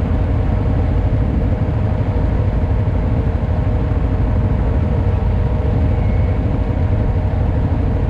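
ATV engine running steadily, with a constant low drone and an even hum.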